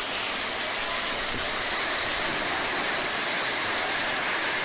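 Steady, loud rushing of water, an even hiss with no breaks.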